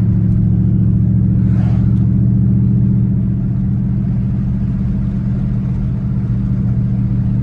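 2012 Dodge Charger SRT8's 392 Hemi V8 running at a steady engine speed through a straight-piped exhaust, a deep, even drone that neither rises nor falls.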